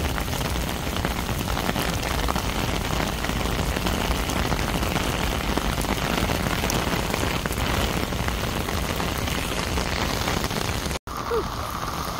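Heavy rain falling steadily, a dense even hiss of drops. It cuts off suddenly near the end.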